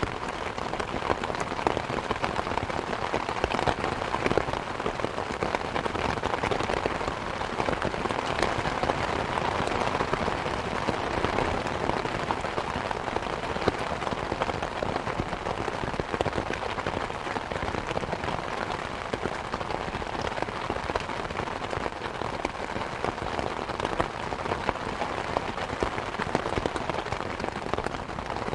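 Steady rain pattering, mixed with the dense snap and crackle of a wood fire in a fireplace.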